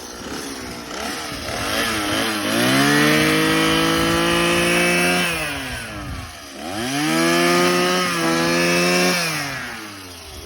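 Petrol brush cutter with a rotary mower head, revving up to full speed and holding it as it cuts reeds. It drops back to idle about six seconds in, revs up again, then eases off near the end.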